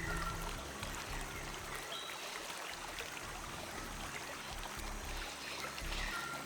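Running water of a stream, a steady even hiss, with a few short high chirps over it.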